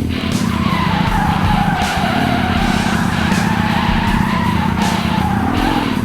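Tyres screeching in a long skid, the pitch sagging and then rising again, over loud rock music.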